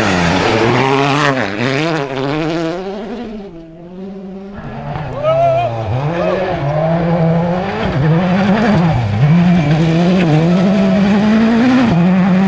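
World Rally Car engines (1.6-litre turbocharged four-cylinders) revving hard on a rally stage. The pitch rises and falls again and again with gear changes and lifts. The sound fades about three and a half seconds in, then another car's engine picks up about six seconds in and runs high, climbing toward the end.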